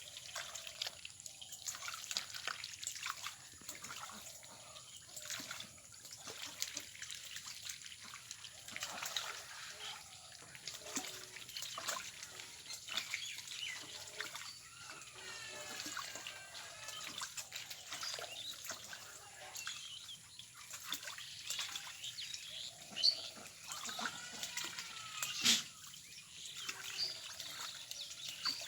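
Ducks dabbling and splashing in shallow water, with steady small splashes and trickling and scattered short calls from the birds.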